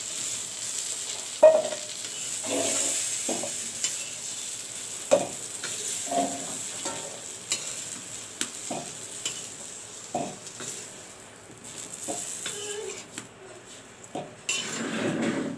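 Fried potato pieces sizzling in hot oil in a kadai while a metal spoon scoops them out, knocking and scraping against the pan about once a second. The sizzle thins out near the end, and there is a louder scrape just before it stops.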